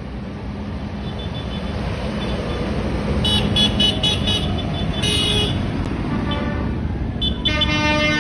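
Tractor engines running as the procession passes, growing louder, with a few quick horn toots a little after three seconds and again around five seconds, and a longer horn blast near the end.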